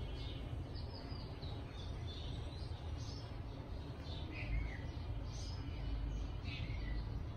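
Small birds chirping, short high calls scattered every second or so, over a steady low rumble.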